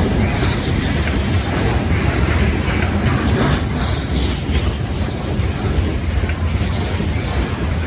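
A long freight rock train rolling by, with a steady, deep rumble of its cars on the rails.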